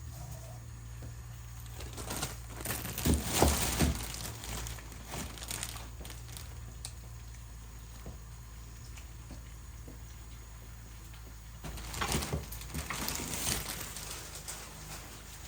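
Rustling, crinkling handling noises in two spells, one about two seconds in and one near the end, over a low steady hum.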